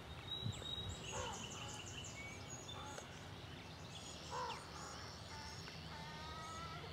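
Wild birds chirping and singing in short, repeated calls, with one lower call about four and a half seconds in and a trilled call near the end, over a low steady background rumble.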